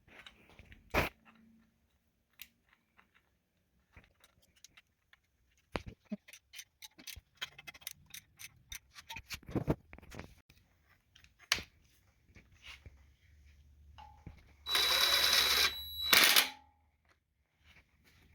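Scattered clicks and knocks of tools and engine parts being handled, with a loud hiss of about a second and a half near the end.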